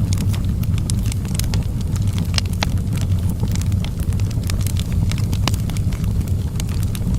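Wood fire in a fireplace burning with steady crackling: irregular sharp pops and snaps over a low, even rumble of the flames.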